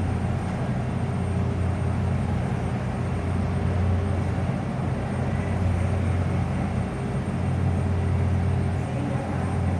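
Steady low engine drone with a constant deep hum, unchanging throughout.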